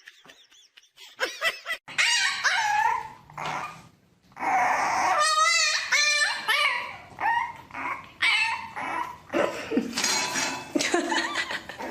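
A dog whining and yelping in a run of short calls that bend in pitch, with a brief pause partway through.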